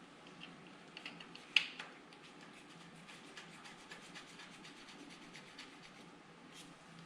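Faint clicks and taps of hand tools and bolts being handled during work on a vehicle frame, with one sharp metallic click about a second and a half in.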